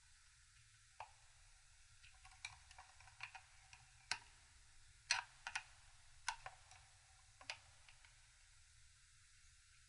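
Scattered sharp clicks and light taps, about ten over six seconds, as of small hand tools and metal parts being handled.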